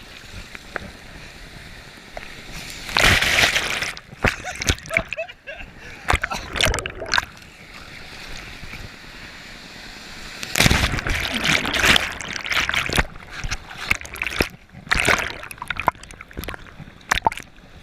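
Lake water splashing and sloshing in irregular bursts, louder about three seconds in and again from about ten to thirteen seconds.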